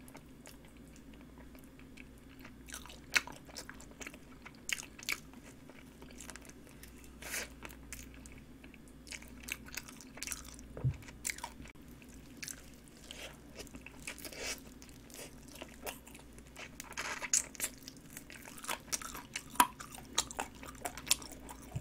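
A person chewing and biting a sauce-glazed roasted chicken drumstick up close: irregular soft clicks and small crunches of eating, over a faint steady hum.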